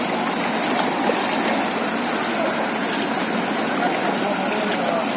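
Floodwater rushing steadily, an even hiss of flowing water.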